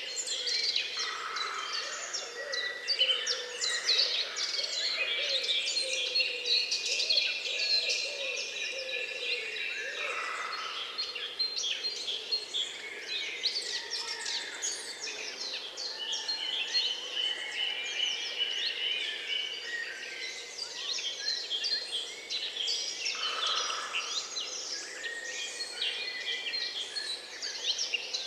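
Dense chorus of many small birds singing at once, overlapping chirps, trills and whistles with no pause, over a steady outdoor background hiss.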